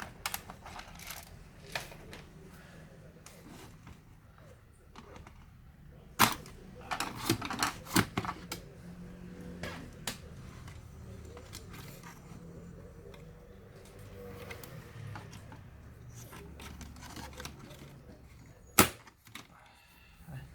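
Scattered clicks and knocks of plastic and small metal parts as an Asus X453M laptop is taken apart by hand, with a quick flurry of clicks about seven seconds in and sharper knocks about six seconds in and near the end.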